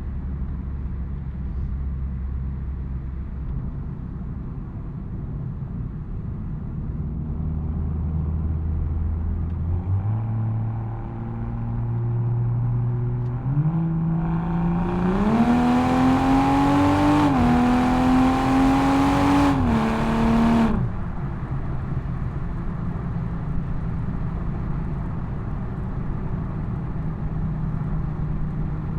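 BMW M240i's B58 turbocharged inline-six exhaust, cruising at a steady low drone. It then accelerates hard, rising in pitch with a couple of brief dips at the upshifts, before cutting off sharply on lift-off and settling back to a steady cruise.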